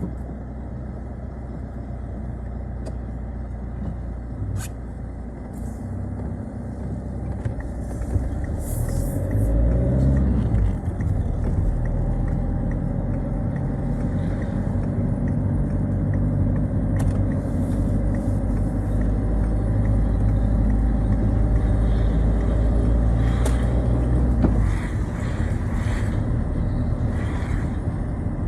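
Citroën Xsara being driven, with its engine and road noise running steadily. About eight seconds in the engine revs up and drops back around ten seconds, as with a gear change, then pulls steadily and louder until easing off near the end.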